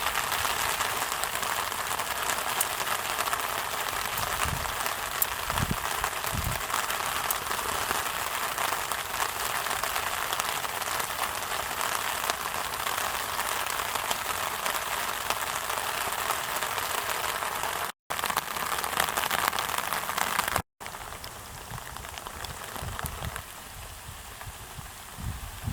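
Steady rain falling and pattering on surfaces. The audio cuts out briefly twice, and after the second break, about 21 seconds in, the rain is quieter.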